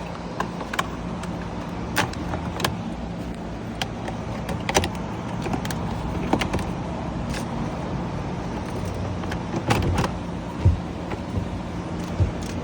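Irregular clicks and knocks of plastic interior trim being worked loose around a Honda Pilot's gear shift, over a steady low hum.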